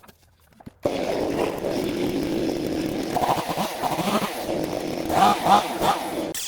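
A small-engined power cutting tool running at speed while clearing overgrown vegetation. It comes in suddenly about a second in, and its pitch and level waver as it labours through the growth. It surges loudest about five seconds in and cuts off abruptly near the end.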